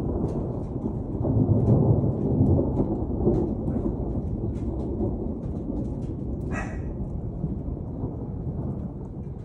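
Thunder rumbling low, swelling about a second and a half in and then slowly dying away, with scattered raindrops ticking. A brief higher-pitched sound stands out near the middle.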